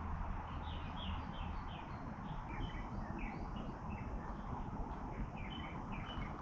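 Birds chirping: many short, high notes in quick succession, each sliding slightly downward, over a steady low rumble.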